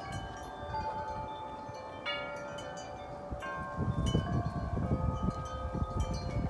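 Wind chimes ringing in the wind, their tubes struck again and again so that several clear tones overlap and hang on. From about four seconds in, gusts of wind rumble against the microphone under the chimes.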